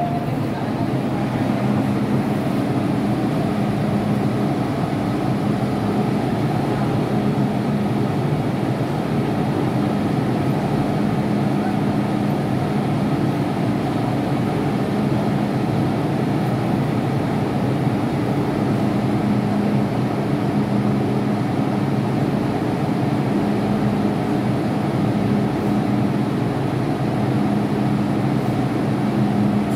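MTR M-train electric metro train running steadily, a constant rumble with a steady low hum.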